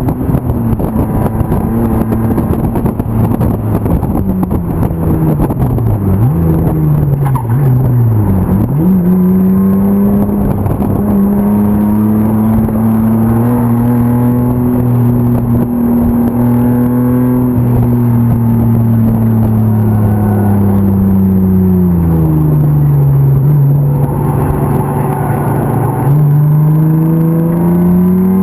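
BMW M50 straight-six race car engine driving hard on track. A few seconds in its pitch drops in dips as the driver slows and shifts down, and it then climbs and holds at high revs. It falls off again a little after twenty seconds and builds once more near the end as it accelerates.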